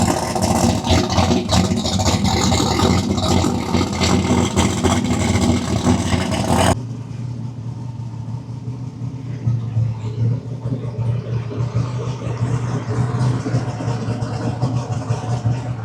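A drag race car's engine running loud with a harsh, rapid crackle. About seven seconds in it cuts abruptly to a quieter, steady engine idle.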